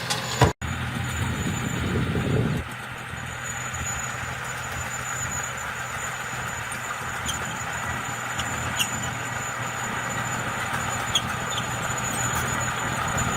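Diesel engine of heavy earthmoving machinery running steadily. There is a sharp knock about half a second in, and a louder rumble that cuts off suddenly about two and a half seconds in.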